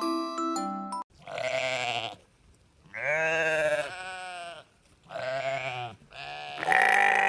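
A short tinkly mallet-percussion jingle, then a sheep bleating four times in wavering calls, the last one cut off abruptly.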